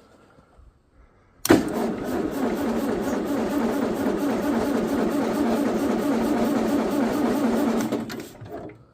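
International TD-15C crawler's diesel engine turning over on a cold start: it comes in suddenly about a second and a half in, runs with a steady, even pulse, and dies away near the end.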